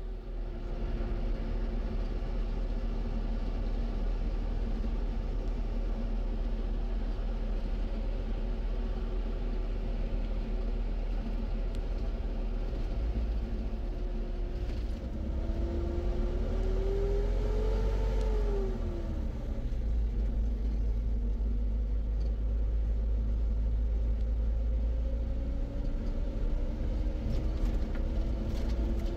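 A motor vehicle running with a steady low rumble. Its pitch rises and falls once about halfway through and rises again near the end, as with changing engine speed.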